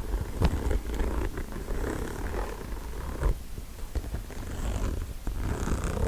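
Close-miked scratching and tapping on an object over a steady low rumble, with irregular sharp taps, the loudest about half a second in and just after three seconds.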